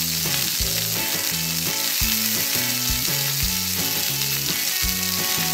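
Frying sizzle sound effect, a steady hiss, laid over toy play-dough dumplings in a toy pan, with light background music in a regular bouncing rhythm beneath it.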